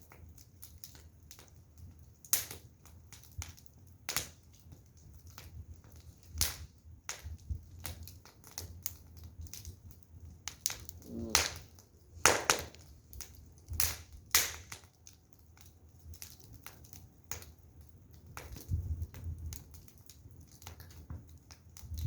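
Burning firewood crackling, with irregular sharp pops and snaps of varying loudness over a faint steady low hum.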